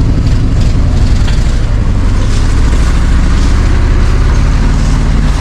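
Chevy C60 wrecker's carbureted gasoline engine running steadily close by, a loud, even low rumble.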